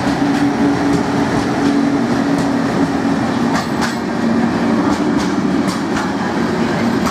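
ÖBB class 1116 Taurus electric locomotive hauling a freight train of open wagons past at close range: a steady electric hum that drops slightly in pitch about halfway through, over the rumble of the wheels, with clicks of wheels over rail joints in the second half.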